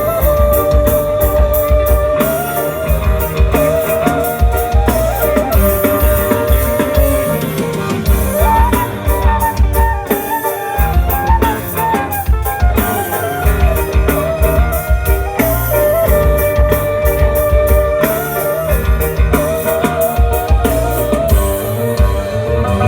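Music with drums, strong bass and a wavering melodic lead, played loud through a PA sound system being tested.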